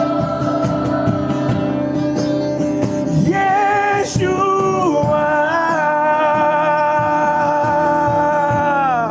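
Live worship song: a singer holds long, drawn-out notes on the word "Yeshua" over steady instrumental backing. The last held note slides down near the end.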